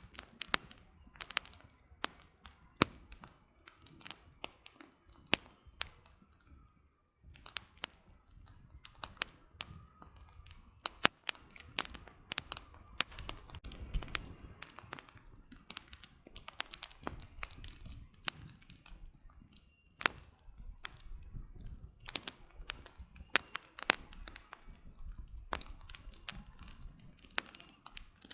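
Campfire of burning firewood crackling, with irregular sharp snaps and pops over a low rumble, and a short lull about six seconds in.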